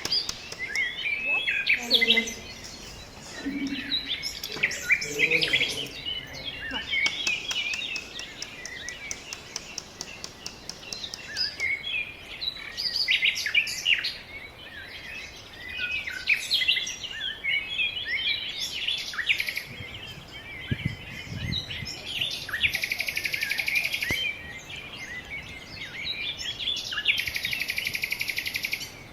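Several birds chirping and singing, many short high notes overlapping. Near the end come two dry buzzing trills of about a second and a half each.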